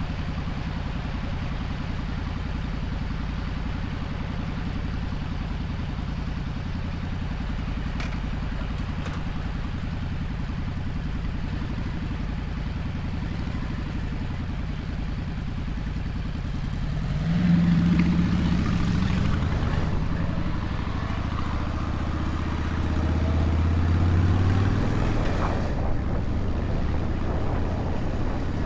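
Motorcycle engine running steadily while riding, then revving up sharply about two-thirds of the way in and pulling hard again a few seconds later.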